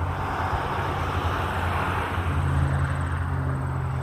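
Crop-dusting airplane's engine droning as it flies past, a low steady hum with a rushing noise that swells about a second in and then fades.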